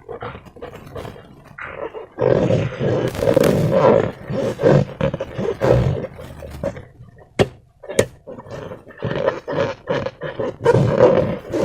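Slime being squeezed, stretched and pulled in transparent rubber balloons, a rough, irregular rasping and squishing noise that comes and goes in pulls. There are two sharp clicks a little past the middle.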